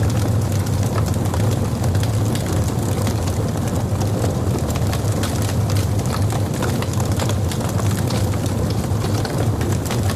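Wood fire of burning logs in a fireplace, a steady low rumble with dense, irregular crackles and pops.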